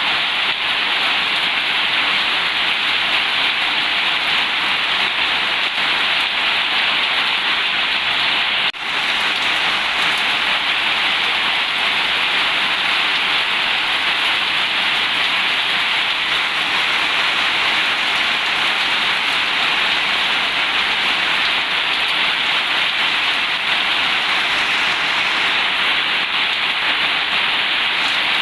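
Heavy rain falling steadily on a zinc sheet roof, a dense, even hiss, with one brief drop in level about nine seconds in.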